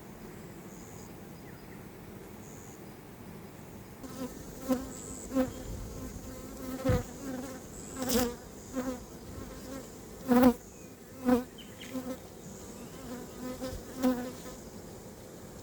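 Honeybees buzzing close past the microphone: after about four seconds of quiet background, a string of short buzzes swells and fades, around a dozen passes, the loudest a little past the middle.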